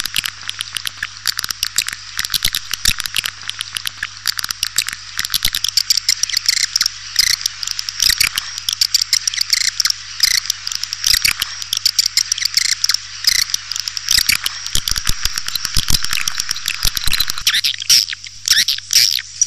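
Edible-nest swiftlet calls, a swiftlet-house lure recording: a dense, unbroken stream of rapid clicks and chirping twitters. A faint steady low hum runs underneath.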